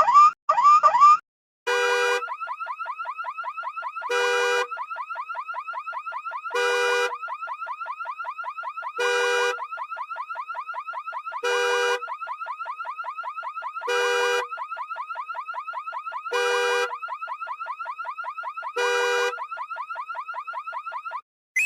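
Car alarm siren tones. A few quick rising chirps end about a second in. After a short pause comes a fast, high warble, broken about every two and a half seconds by a louder honking blast, eight times in all.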